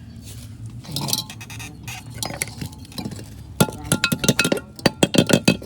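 Metal parts of a cut-open fridge compressor clinking and knocking together, scattered at first and then in a quick run of ringing strikes in the second half.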